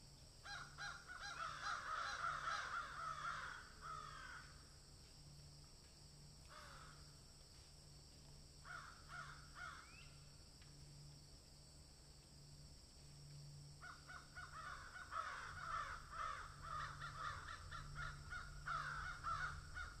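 Birds giving harsh, rapidly repeated calls in bouts: a run of a few seconds near the start, a couple of short bursts in the middle, and a longer run in the last six seconds.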